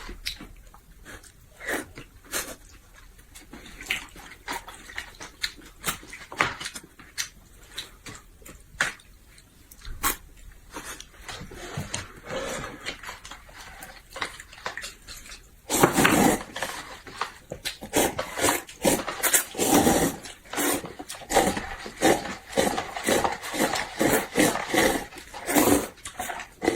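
Close-up eating sounds: wet chewing and lip-smacking made up of many short smacks. They are sparse at first and become louder and quicker, about three a second, from a bit past halfway.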